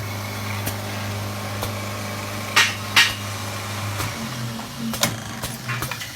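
Automatic wood-turning lathe running with a steady low motor hum, broken by a few sharp wooden clacks at irregular moments, the loudest about two and a half, three and five seconds in.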